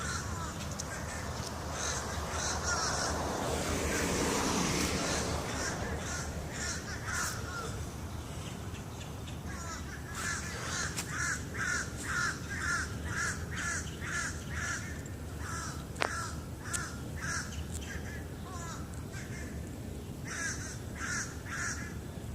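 Crows cawing back and forth in runs of short, quick calls, about two a second, heard as birds communicating with one another. A swell of steady noise comes in the first few seconds, and a single sharp click about sixteen seconds in.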